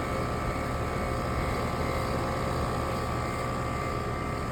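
Two outdoor air conditioner condenser units running together: a steady fan whir over a compressor hum.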